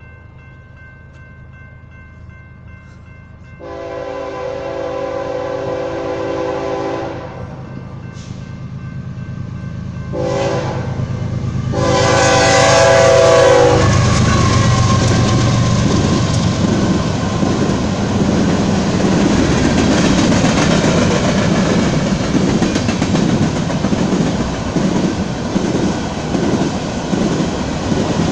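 A BNSF diesel freight locomotive's air horn sounds the crossing signal: a long blast, two short ones, and a final loud long blast as the engine reaches the crossing, with steady crossing-signal tones under the opening. The locomotive then rumbles past, and a long string of grain hopper cars follows, their wheels clattering steadily on the rails.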